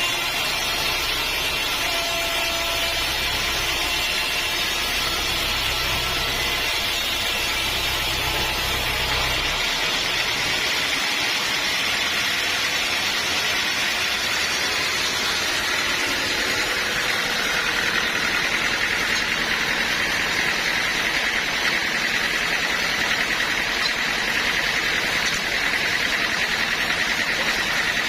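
Sawmill machinery running steadily as teak logs are sawn. A low hum drops away about a third of the way in, and a high whine grows stronger in the second half.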